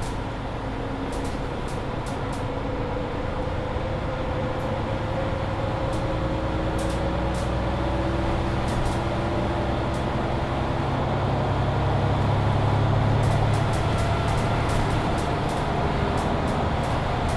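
Mercedes-Benz Citaro C2 Hybrid city bus heard from inside the cabin, its engine and drivetrain running under load as it gathers speed. A whine rises slowly in pitch and the sound grows a little louder, with light clicks and rattles now and then.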